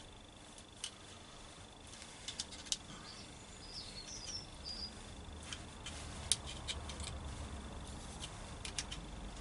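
Faint, scattered clicks and taps of hands working with wires and tools, over a steady high thin tone. A few short bird chirps come about halfway through.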